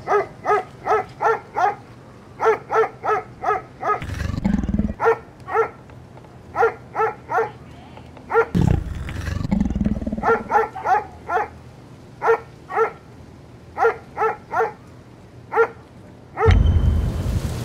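Short barking animal calls in quick bursts of four to six, about three a second, broken twice by a low growl, about four and nine seconds in. Near the end, thunder and heavy rain start suddenly.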